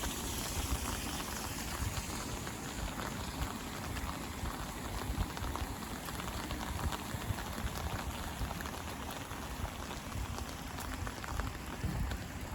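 Steady rain falling, a dense patter of individual drops hitting surfaces, with an uneven low rumble underneath.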